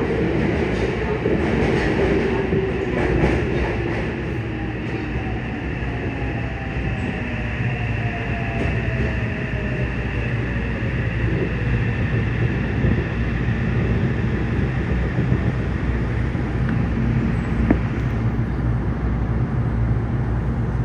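Yokohama Municipal Subway 3000N-series train running, heard from inside the car: a steady rumble of wheels on rail and running gear. Over the first half, the whine of its Mitsubishi IGBT-VVVF traction equipment glides downward in pitch.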